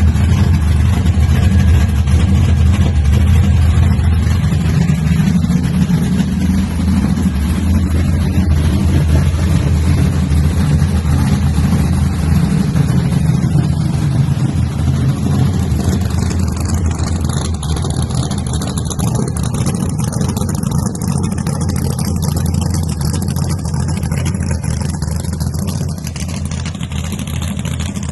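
An old truck's engine running with a steady, deep rumble, easing slightly towards the end.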